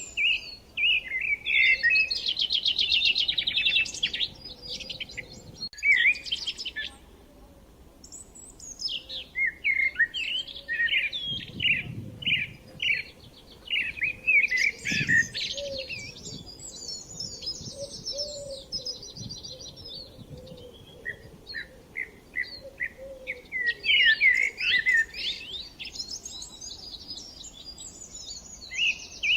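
Several songbirds singing at once: varied chirps, whistled phrases and rapid trills overlapping, with a short lull about seven seconds in.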